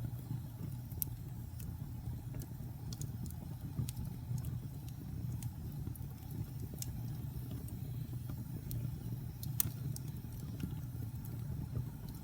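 Wood fire burning in a fireplace: a steady low rumble of the flames with scattered sharp crackles and pops from the burning logs, one louder pop near the end.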